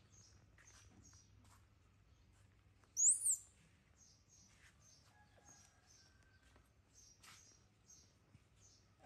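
Small birds chirping: short high chirps repeating every third to half second, with one much louder, higher chirp about three seconds in.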